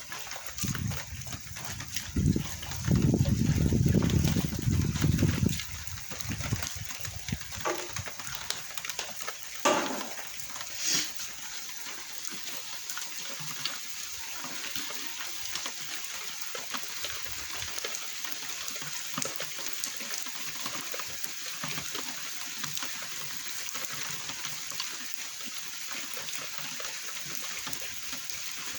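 Steady rain falling, a continuous hiss. A loud low rumble lasts a few seconds near the start, and a few brief higher sounds come around ten seconds in.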